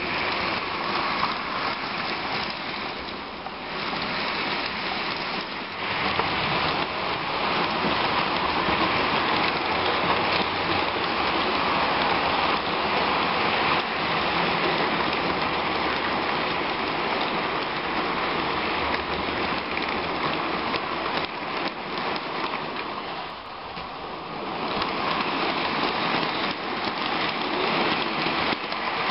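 H0-scale model trains running on track: a steady rushing rattle of wheels on rails and small motors, with fine ticking all through, dipping briefly about three seconds in and again near 23 seconds.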